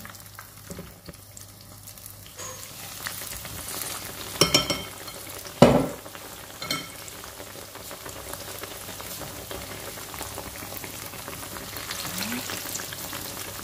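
Battered banana fritters frying in hot oil: a steady sizzle and crackle that gets louder about two and a half seconds in. There are a few sharp knocks around the middle, the loudest near six seconds in.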